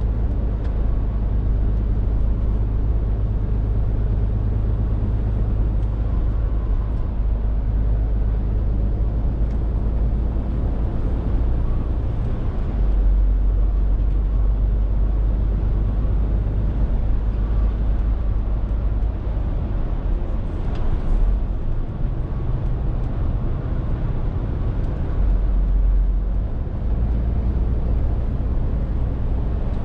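Scania R450 lorry's six-cylinder diesel engine running on the move, a steady low drone with road noise, the drone shifting in depth a few times.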